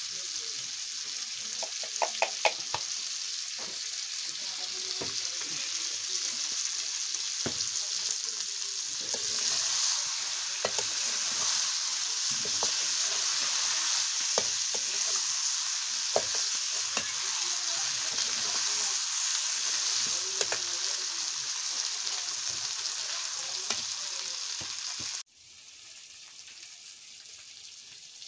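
Chicken curry sizzling and frying in a pan while being stirred, with irregular scrapes and clicks of the spoon against the pan. The frying grows louder about nine seconds in, and near the end it cuts off suddenly to a quieter hiss.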